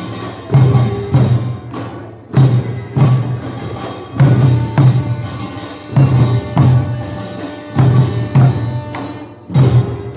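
Korean pungmul farmers' band percussion playing a steady repeating rhythm: heavy drum strokes landing in pairs about every two seconds, with clanging and ringing gongs sustained between them.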